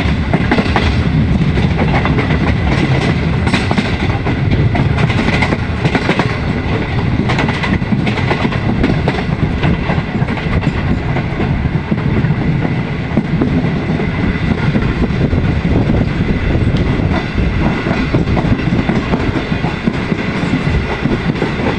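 Passenger train coach running at speed, heard from its open door: a steady loud rumble of wheels on the rails, with sharp clicks from the rail joints for a few seconds early in the run.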